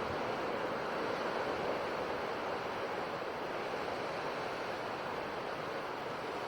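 Ocean waves washing on a shore: a steady, even rush of surf with no single breaker standing out.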